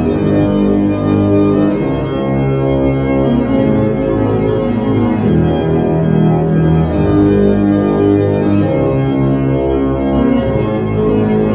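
Slow organ music with long held chords that change about once a second.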